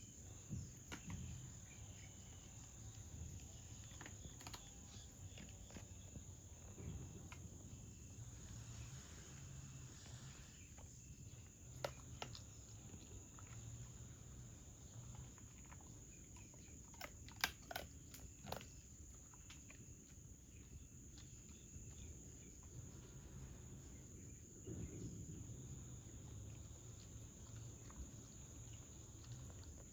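Faint outdoor ambience of insects, likely crickets, giving a steady high trill, with a low rumble underneath and a few soft clicks about halfway through.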